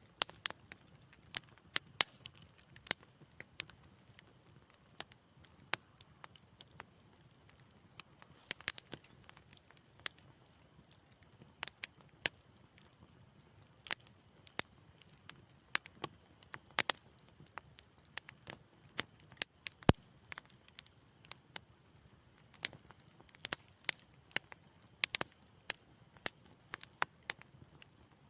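Wood fire crackling in a fireplace: irregular sharp pops and snaps, some louder than others, with the loudest pop about twenty seconds in, over a faint low hiss of the flames.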